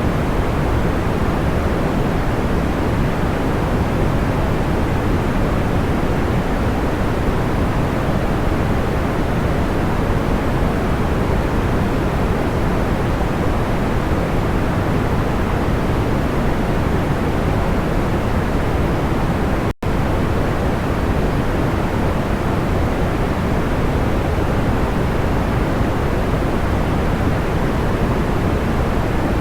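Steady pink-type white noise for sleep, a soft even hiss weighted toward the low end, with no crackles. It cuts out for an instant about twenty seconds in.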